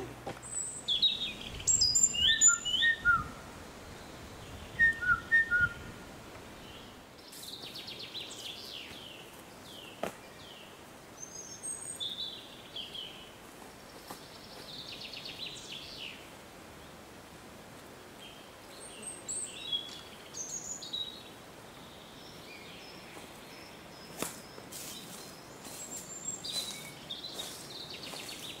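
Wild songbirds chirping and singing in trees, with short high calls every second or two. A low rumble runs through the first few seconds, and a couple of sharp clicks come later.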